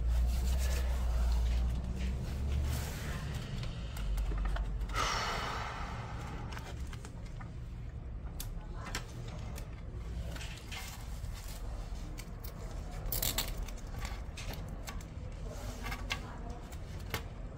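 Hands working on laptop parts: scattered small plastic clicks and handling noises, with a brief scraping rustle about five seconds in, over a low hum.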